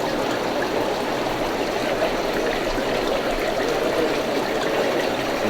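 Steady running and trickling water from aquarium tanks and their filters.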